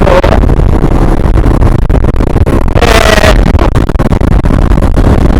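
MGB ATX 125cc motorcycle being ridden at road speed: a steady low engine and road rumble under heavy wind buffeting on the microphone.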